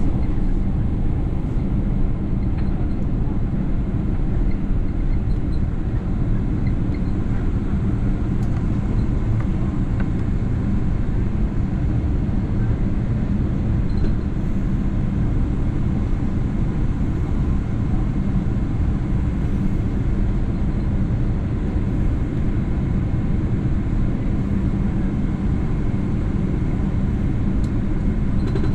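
Steady low rumble inside the passenger cabin of a Boeing 777-300ER airliner, the noise of its engines and airframe, holding an even level throughout.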